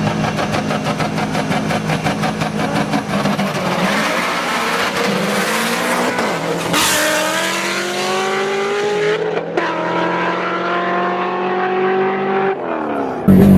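Car engine accelerating hard, its note climbing steadily with a brief break about nine and a half seconds in, like a gear change, then climbing again. Near the end it cuts off suddenly to a louder, steady engine note.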